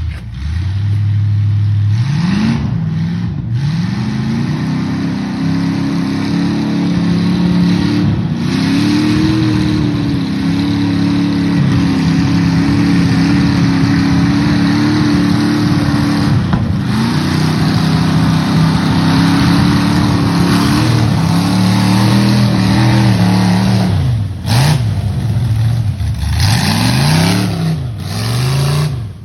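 Jeep CJ engine revving hard while mudding. It climbs from a low steady idle about two seconds in and holds high, wavering revs for long stretches. Near the end it is blipped up and down several times in quick succession.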